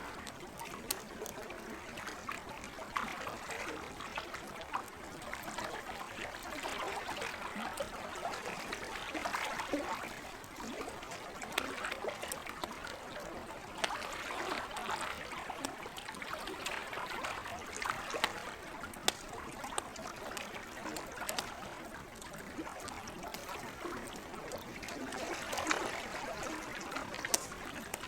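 Campfire crackling with scattered sharp pops, over the gentle sound of lake water.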